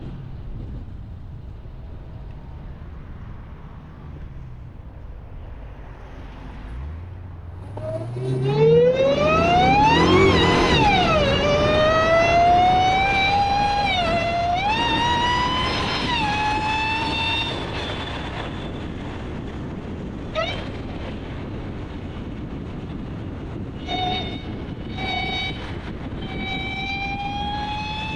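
Supercharged 6.2-litre Hemi V8 of a Dodge Charger Hellcat under hard acceleration, with a high supercharger whine that rises in pitch, drops as the transmission shifts, and rises again before easing off. After a few seconds of low cruising rumble at the start, a shorter rising whine returns near the end.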